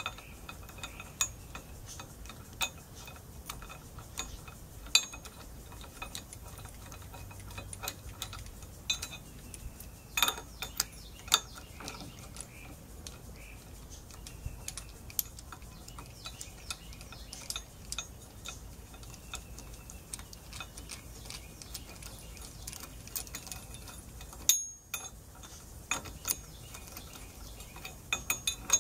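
Hand ratchet wrench clicking in short runs, with scattered sharp clinks and knocks of metal tools and parts as bolts are worked loose.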